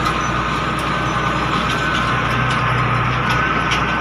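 MTZ-1221 tractor's six-cylinder diesel running steadily under way, with a constant whine over its low hum.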